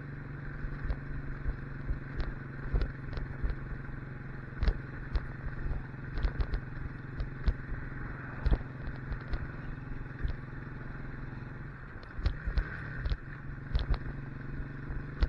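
Motorcycle engine running steadily while riding, with frequent short sharp knocks over it. About twelve seconds in, the engine's pitch dips and rises briefly.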